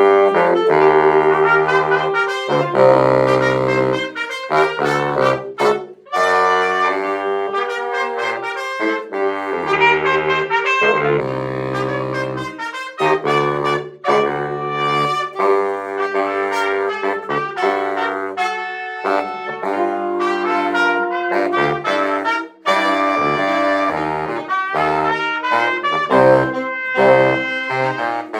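A small ensemble of trumpet, baritone saxophone and alto saxophone playing a tune together: brass-led melody over low baritone sax notes, in phrases with short breaks.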